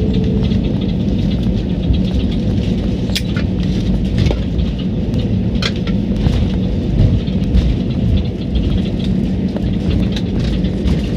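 Loud, steady rumble of an airliner's engines and airflow heard inside the passenger cabin, with scattered small rattles and crackles.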